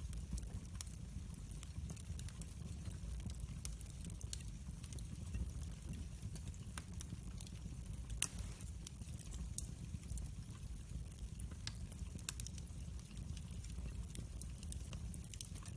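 Wood fire crackling: many small, irregular pops and ticks over a steady low rumble, with one sharper, louder pop about eight seconds in.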